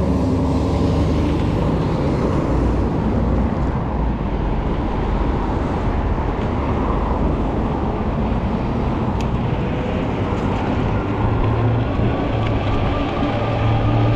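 Steady riding noise on a 20-inch folding fat-tire e-bike: a rush of wind and road noise, with a faint whine strengthening near the end.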